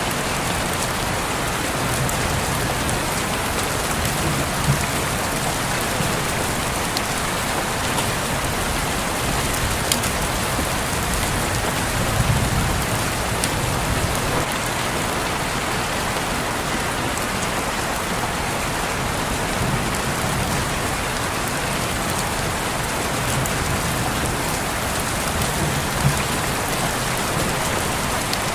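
Steady rain falling and pattering on a window, with scattered individual drop hits standing out now and then.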